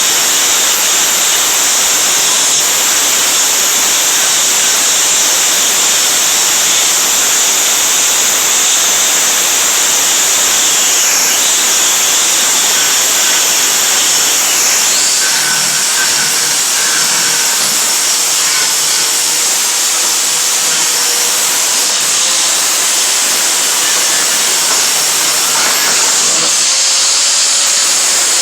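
Power grinder running steadily against the rusted steel of a truck bed, a continuous high-pitched grinding as it strips the rust.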